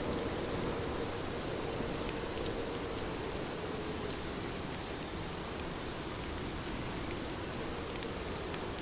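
Heavy rain falling steadily, with scattered drops pattering on surfaces.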